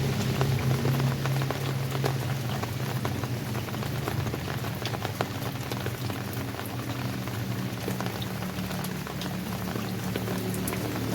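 Steady rain falling, with many separate drops landing as sharp ticks over an even hiss, and a low steady hum underneath.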